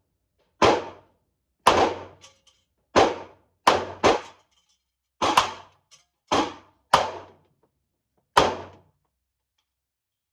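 Nine 9mm pistol shots in an indoor range, fired singly at irregular intervals, two of them in quick succession about four seconds in, each with a short echoing tail.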